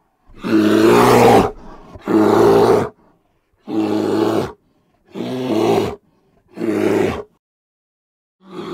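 A bear calling: five harsh, rough calls in a row, each about a second long, the first the longest and loudest.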